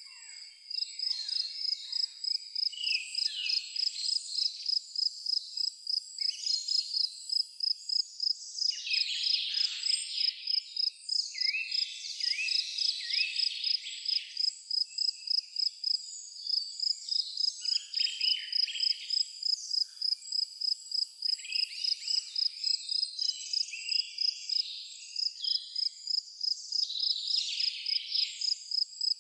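Crickets chirping in a steady, even rhythm, about three high chirps a second, with several songbirds singing chirps and short trills over them.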